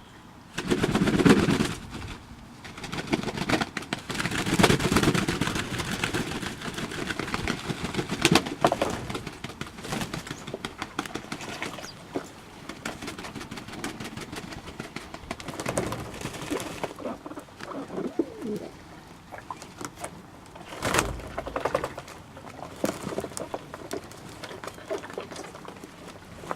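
Domestic pigeons cooing repeatedly, with scattered short taps and rustles.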